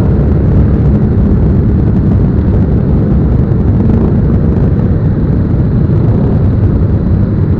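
Steady, loud rush of wind and running motorcycle noise on a rider's microphone while riding.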